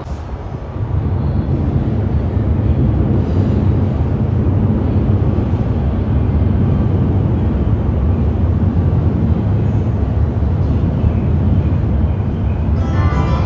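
JR commuter train running into the platform, a loud steady low rumble of wheels and motors that comes up about a second in and holds.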